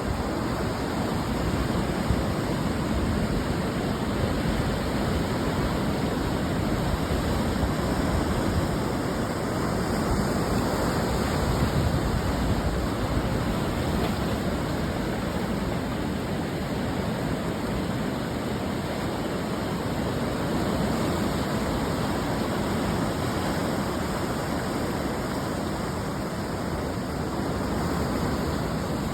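Ocean surf breaking on the shore: a continuous rush of waves that swells and eases gently every few seconds, with no single sharp crash.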